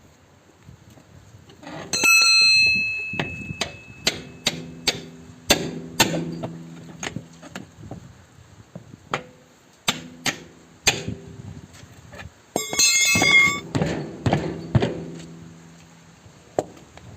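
Hammer blows on metal during a tractor front tyre puncture repair: a long series of irregular strikes, a couple of them loud and ringing on for a moment, about two seconds in and again around thirteen seconds.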